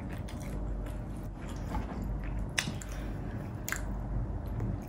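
Close-miked eating sounds: a person biting and chewing food, with two sharp clicks about two and a half and three and a half seconds in.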